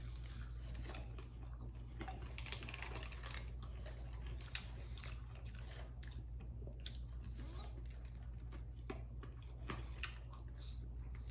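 A man chewing and biting into chicken wings close to the microphone: irregular small wet clicks and smacks of mouth and teeth, over a steady low hum.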